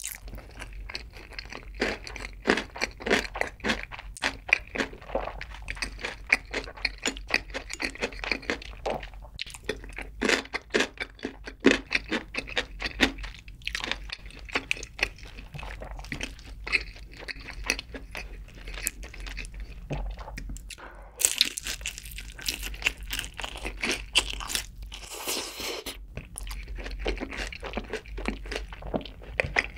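Close-miked chewing of crunchy food, a quick, uneven run of crisp crunches, with a denser, hissier stretch of crunching about two-thirds of the way through.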